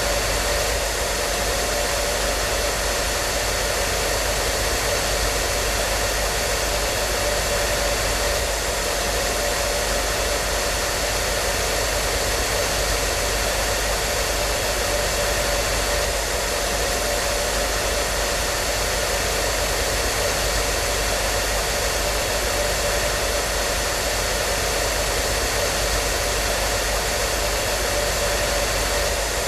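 Hair dryer running steadily: a constant airflow rush with a faint motor hum and a few thin steady tones, unchanging throughout.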